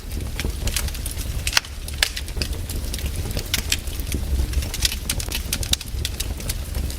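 Fireplace fire crackling: irregular sharp pops and snaps over a steady low rumble of the flames, with a couple of louder pops about one and a half to two seconds in.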